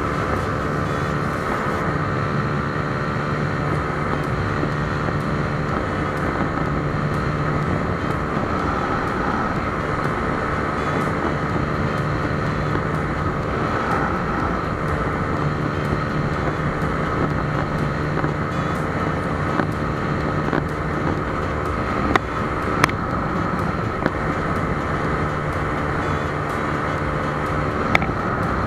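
Honda Supra GT-R 150's single-cylinder engine running steadily at highway speed, around 120 km/h, with wind rushing over the bike-mounted camera. A few sharp clicks come in the second half.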